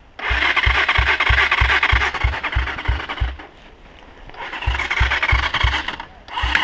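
Irbis TTR 250 motorcycle engine being cranked on its electric starter in two long bursts, the starter whirring with about three to four compression thumps a second, without catching. The engine has taken in water, and the air filter is full of it.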